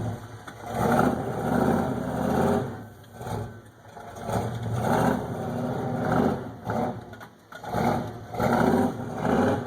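Pickup truck engine revving hard in repeated surges, three bursts of roughly three revs each, as the truck spins through the sand to churn up the weeds.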